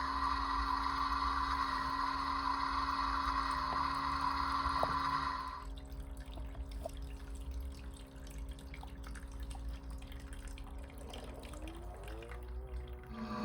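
Toy washing machine running. For about the first half, water pours into the drum with a steady whine, then stops suddenly. Drips and a low hum are left. Near the end a motor winds up with a rising tone.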